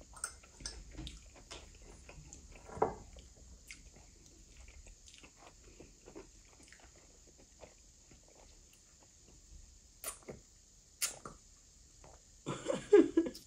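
Close-up eating sounds of barbecued catfish and chips being chewed, with soft smacks and scattered small clicks, and a couple of sharper clicks about ten and eleven seconds in.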